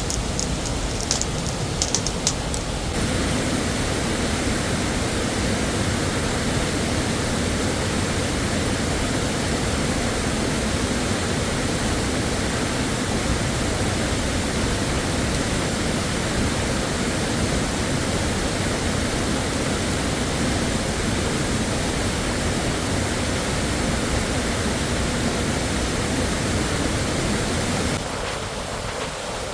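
Waterfall rushing, a steady, even noise of falling water. A few sharp clicks come in the first couple of seconds.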